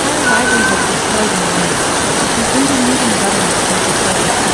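Loud, steady rush of heavy rain and floodwater, an even unbroken noise.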